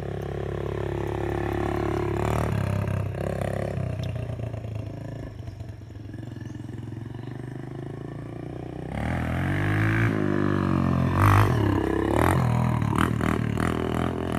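Dirt bike engine running on the track: steady at first, easing off in the middle, then revving up and down from about nine seconds in.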